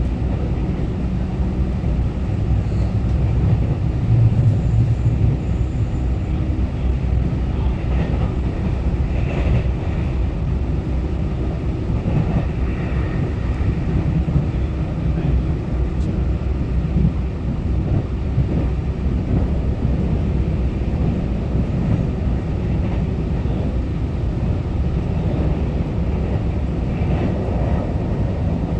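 Taiwan Railway EMU900-series electric commuter train running between stations, heard from inside the car: a steady low rumble of the train underway.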